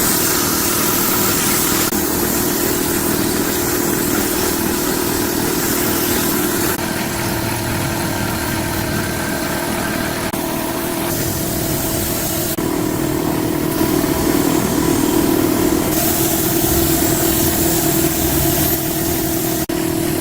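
Restored D24 diesel engine running steadily at idle; the sound shifts abruptly a few times, as at cuts between clips.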